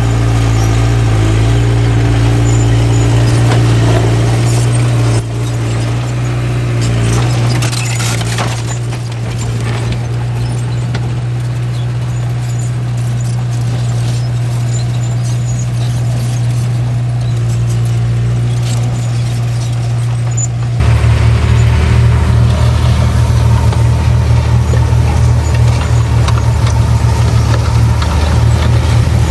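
Small bulldozer's diesel engine running steadily under work. The sound changes abruptly about five seconds in, and about twenty-one seconds in it turns louder, deeper and rougher.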